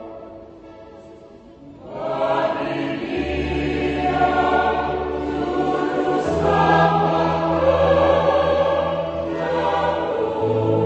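Church choir singing in harmony. After a brief lull, the choir comes back in about two seconds in and holds sustained chords over low notes.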